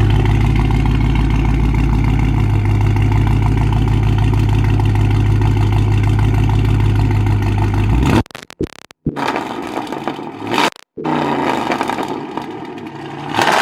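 Dodge Charger's exhaust, with catless Stainless Works mid pipes and the mid muffler deleted, running loud and steady at held revs. About eight seconds in it cuts off abruptly, breaking into short gaps and bursts.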